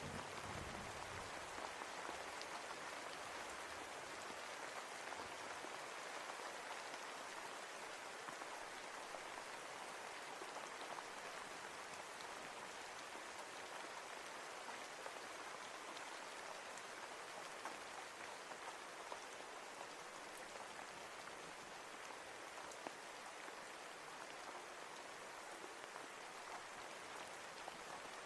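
Steady rain falling: an even hiss with scattered individual drop ticks. The tail of a low thunder rumble dies away in the first second.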